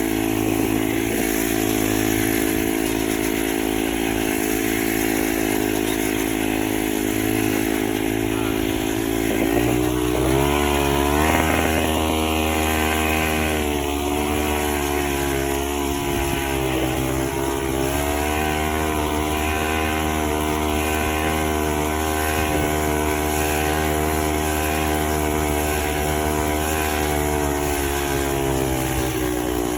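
Small two-stroke weed eater engine driving a friction-drive bicycle, running steadily under load. About a third of the way in it revs up, then holds a higher speed with small dips in pitch.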